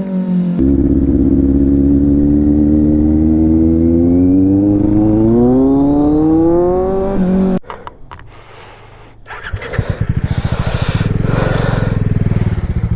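Sport motorcycle with an aftermarket SC Project exhaust accelerating, its engine note rising steadily through a long pull and then cutting off abruptly. After a brief lull the engine runs loud again with a fast pulsing beat.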